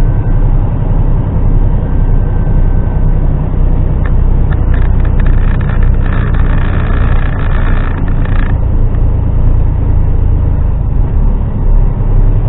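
HGV lorry's diesel engine and road noise, a steady heavy low rumble while driving, with a few seconds of extra higher-pitched noise about halfway through.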